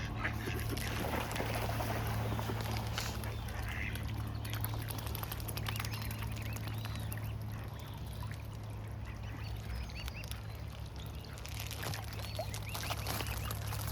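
Ducks feeding on the water, with scattered quacks, dabbling and small splashes, over a steady low hum.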